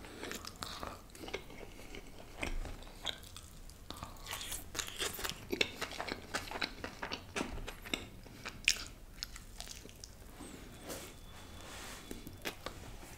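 A person chewing and biting food close to the microphone: many short wet mouth clicks and soft crunches throughout.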